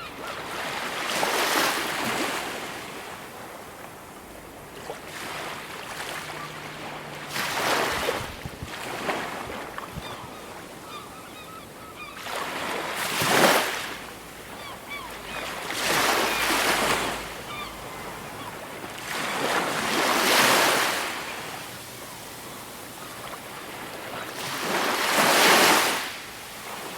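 Ocean waves breaking on a shore, washing in and drawing back in slow surges about every four to five seconds.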